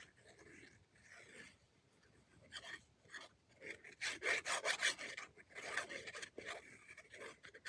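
Paper and craft materials rubbing and scraping in quick repeated strokes on a work surface, loudest and busiest about halfway through.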